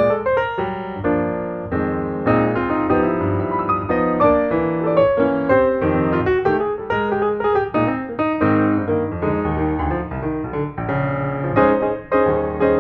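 Background piano music: a solo piano piece with many quick notes and chords at a steady moderate loudness.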